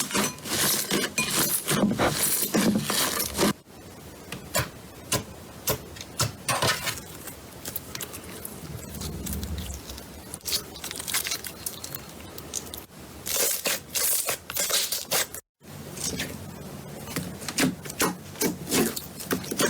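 Slime being handled by hand: sticky rubbing and scraping with dense irregular crackles. The sound is louder for the first three and a half seconds, then drops abruptly, and cuts out briefly near fifteen and a half seconds.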